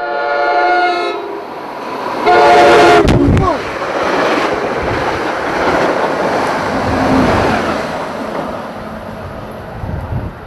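Train horn sounding a chord, then a second, louder blast as the train arrives; about three seconds in there is a sharp knock and the horn's pitch falls as it passes. The train then rumbles steadily past.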